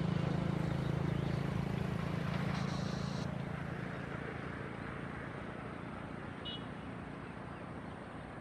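Boeing 737-800's jet engines running at taxi power, a steady low hum with a high whine that fades as the aircraft moves away; a brief high chirp near the end.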